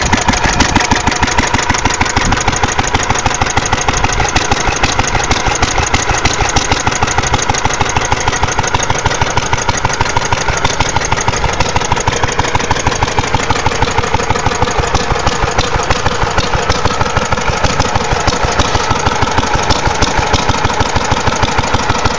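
IHC LA 1 1/2–2 1/2 hp single-cylinder antique stationary engine idling slowly, its exhaust beats coming at a steady, even rhythm.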